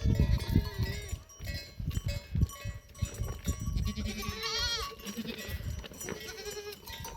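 A flock of goats and sheep bleating, several wavering calls overlapping, one long call about four seconds in. Low uneven rumbling noise lies under the calls, loudest in the first three seconds.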